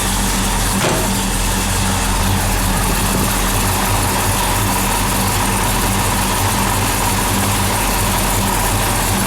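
Oldsmobile 455 V8 idling steadily, with a short click about a second in.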